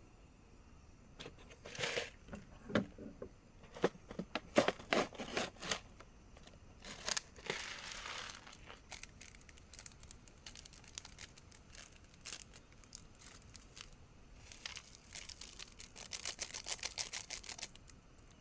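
Close-up handling noise: crinkling and tearing sounds, like packaging or plastic being handled, with scattered sharp clicks and knocks in irregular bursts. A dense run of rapid rustling comes near the end.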